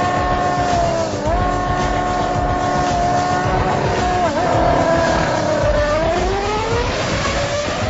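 Racing engines of a Formula One car and a MotoGP bike held at high revs on the start line. The revs dip briefly twice, then sag and climb steadily as the machines launch and pull away.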